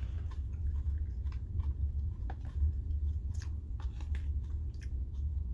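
A person chewing crunchy salad close to the microphone, with scattered short crisp crunches, over a steady low hum.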